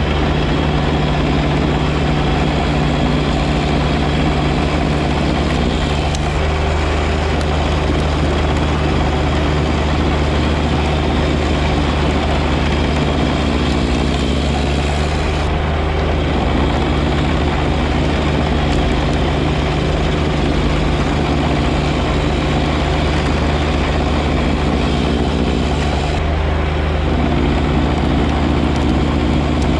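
John Deere 1025R compact tractor's three-cylinder diesel engine running steadily while working a 54-inch front snow blower, its tone shifting slightly a few times.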